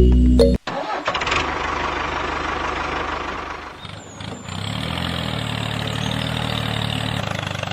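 An engine starting up and then running steadily, with a brief dip near the middle before it settles into an even hum.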